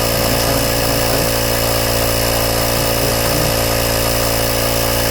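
Michelin 12 V digital tyre inflator's compressor running steadily, pumping up a car tyre as the pressure rises. The noise is there but not too loud.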